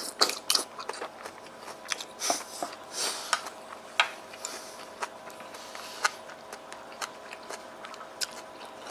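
A person chewing a spoonful of simmered chicken with green onion and paprika, close to a clip-on mic: an uneven run of small wet clicks and crackles, with a faint steady hum underneath.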